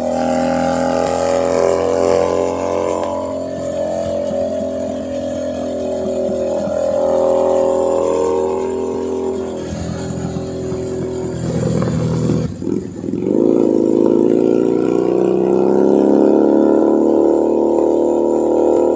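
Keeway SCR 250V motorcycle engine and exhaust running while riding, its pitch rising and falling with the throttle. About twelve and a half seconds in, the sound dips briefly, then climbs steadily again.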